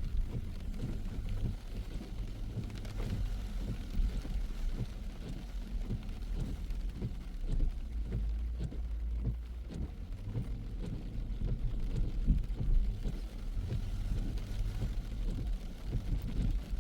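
Rain tapping on a car's windshield and roof in scattered, irregular clicks over the low rumble of the car driving.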